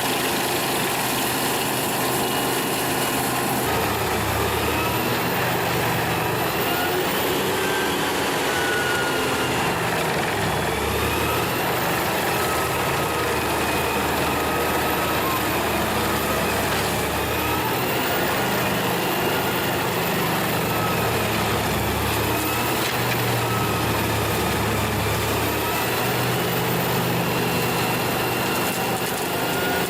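Engine-driven wood chipper running steadily, its engine pitch dipping and recovering slightly every few seconds.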